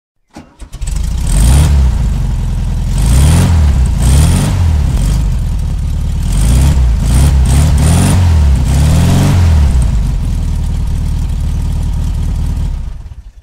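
Car engine started and then revved repeatedly, rising and falling in pitch, before fading out near the end.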